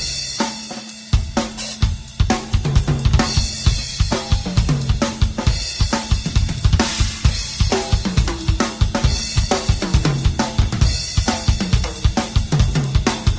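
Drum kit played solo: fast, dense runs of bass drum, snare and tom strokes under cymbal and hi-hat wash. There is a short break in the strokes about a second in, then the playing resumes.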